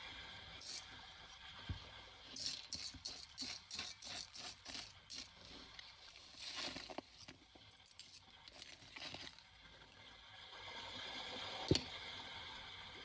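Objects being handled close to the microphone: a quick run of crackly clicks and crinkles, a brief swell of rustling, then one sharp click near the end, over a soft steady hiss.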